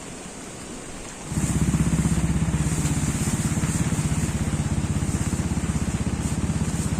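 A small engine starts up about a second in and keeps running steadily with a fast, even pulse, over the hiss of rain.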